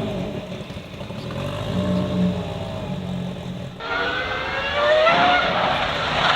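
Performance car engines. First an engine runs low and fairly steady. Then, after a sudden cut about four seconds in, an engine revs up hard as the car accelerates, its pitch rising.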